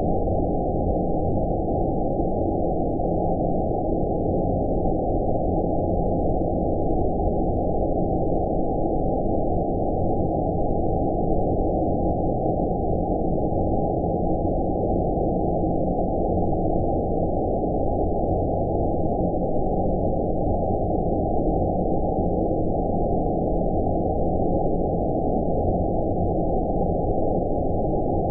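Steady, deep rumbling noise, a low-pass-filtered white noise with nothing above about 1 kHz, meant as an outer-space ambience for sleep. It holds even and unchanging throughout.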